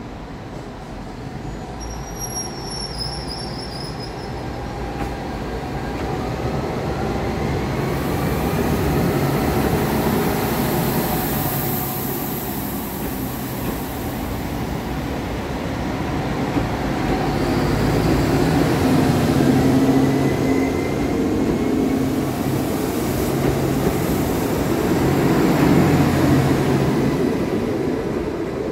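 SNCF Régiolis regional multiple unit pulling away from the platform and passing close by, with a rising whine as it gathers speed over a rumble of wheels on the rails that swells as the carriages go past.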